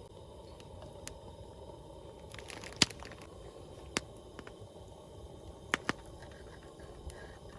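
A wood fire burning in a fire pit: a low, steady crackle with a few sharp pops or clicks. The loudest comes about three seconds in, with another at four seconds and a quick pair near six seconds.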